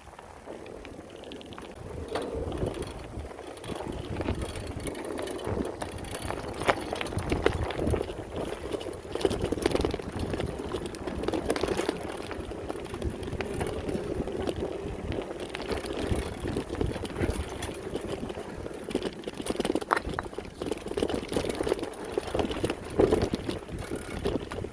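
Off-road bike being ridden over a dirt trail: a steady rumble of tyres on the ground, with frequent rattles and clicks as the bike goes over bumps.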